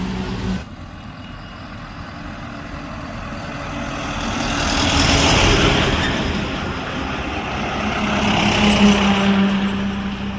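Heavy trucks passing on a highway, engine and tyre noise swelling and fading twice. A horn blares into the first half-second and cuts off suddenly, and a steady low tone returns near the end as the second vehicle passes.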